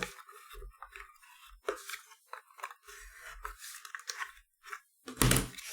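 Cardstock box being handled and pressed: soft paper crinkling and light taps, with a louder bump about five seconds in.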